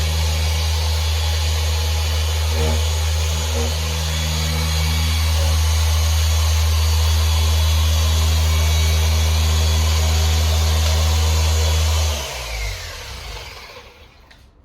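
Electric car polisher running steadily on a windshield with glass polish, a loud low hum with hiss; about twelve seconds in it is switched off and its whine falls away as it spins down.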